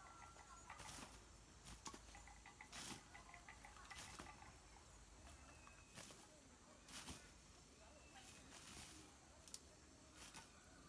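Quiet outdoor ambience: scattered soft rustles and taps, with a few short series of quick, high chirps from small birds or chicks.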